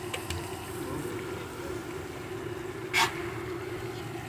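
A motor running steadily with a low, even hum. About three seconds in there is one brief sharp noise, louder than the hum.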